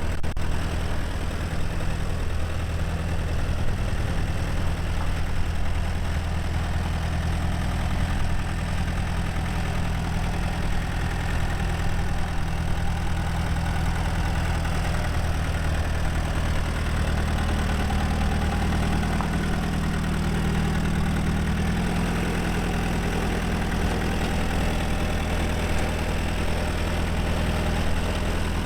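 1951 Allis-Chalmers Model B tractor's four-cylinder gasoline engine idling steadily, its note shifting slightly about two-thirds of the way through.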